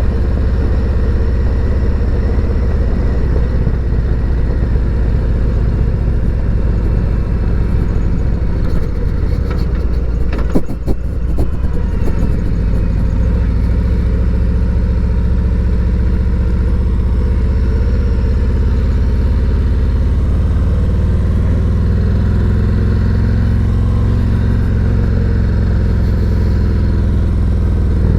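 Harley-Davidson Road Glide Special's Milwaukee-Eight 114 V-twin running under way through an S&S MK45 slip-on exhaust. A brief knock comes about ten seconds in, and the engine pitch rises as it accelerates later on.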